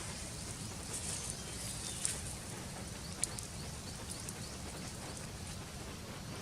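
Outdoor ambience: a steady low rumble with many faint high chirps and ticks, and two sharp clicks, one about two seconds in and one about three seconds in.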